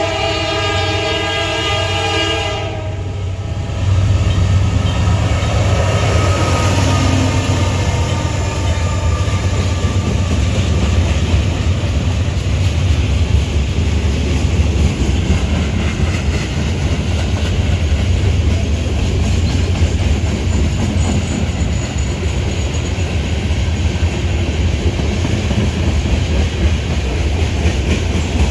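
Train horn sounding for the first few seconds and cutting off, then the train passing close by: a steady, loud rumble, strongest low down, that holds to the end.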